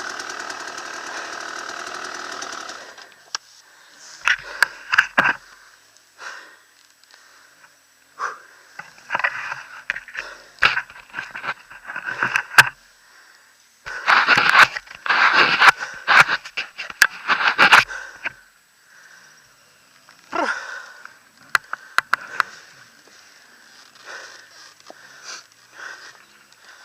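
Off-road motorcycle engine running steadily, then cutting out about three seconds in. After that come scattered scuffs, knocks and clicks, heaviest around the middle.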